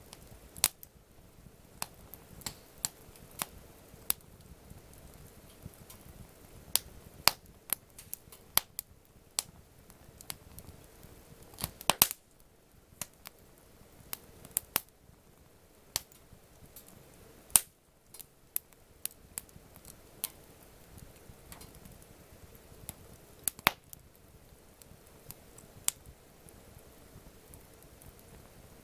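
Wood campfire crackling: irregular sharp snaps and pops from the burning wood, a few of them much louder, over a low steady hiss.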